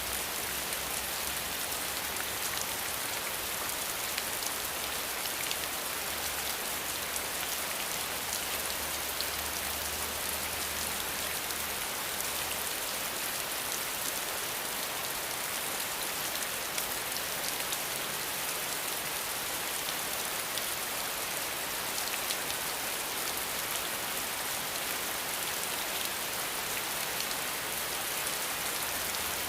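Steady rain falling, an even hiss dotted with many fine drop ticks. A faint low rumble sits underneath for the first twelve seconds or so, then fades.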